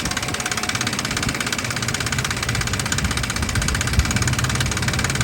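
2006 Nissan Frontier engine idling with a steady, even pulse after being revved up, the rough idle that the owner links to low oil pressure.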